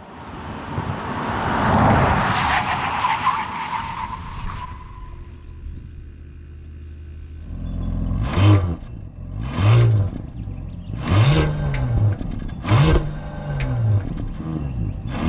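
A rush of tyre and road noise swells and fades as the car goes by. Then, after a lull, the Bentley Flying Spur Hybrid's 2.9-litre twin-turbo V6 is revved four times, its pitch rising and falling with each throttle blip, each rev peaking sharply.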